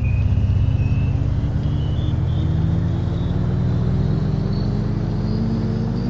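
A motor vehicle engine accelerating, its low rumble and a thin whine above it both climbing slowly and steadily in pitch.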